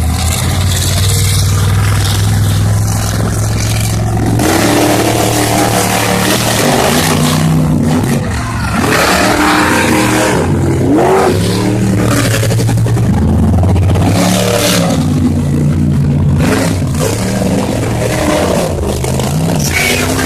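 Monster truck engines running at a steady low pitch, then from about four seconds in revving hard again and again, the pitch climbing and falling as the trucks race.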